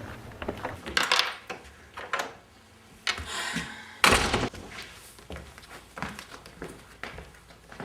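Knocks and thuds of things being handled in a small room, with a short hiss just after three seconds and the loudest thud about four seconds in.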